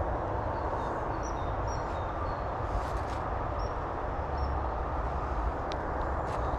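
Steady rushing outdoor background noise with a low rumble, with a few faint, short high bird chirps over it.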